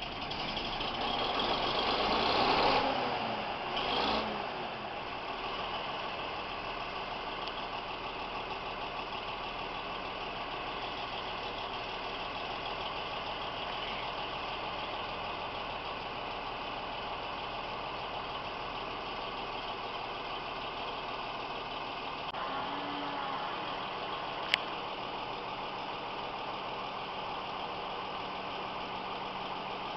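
Bizon Z058 Rekord combine harvester's diesel engine swells up in the first few seconds and settles back, then runs steadily at idle. There is a single sharp click near the end.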